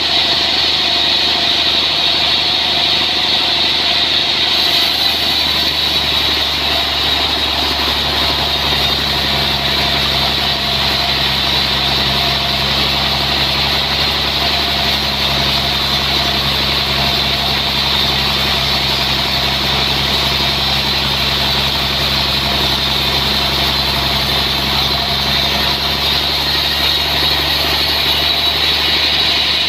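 Sawmill machinery running steadily: a constant engine-like drone with a steady hiss and no breaks.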